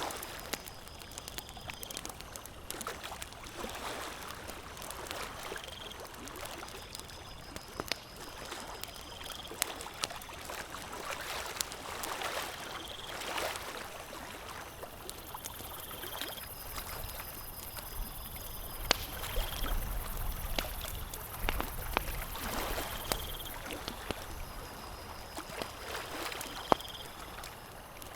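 Campfire crackling, with scattered sharp pops, over a steady wash of lapping water. A short high chirp repeats every few seconds, and a thin high whine joins for several seconds in the middle.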